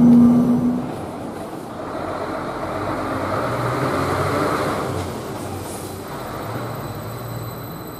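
A Zurich S-Bahn RABe 511 (Stadler KISS double-deck electric multiple unit) running into a station, its rush of wheels and traction noise swelling and then easing off as it comes along the platform. Before that, about the first second holds a steady electric hum from a passing tram, which cuts off.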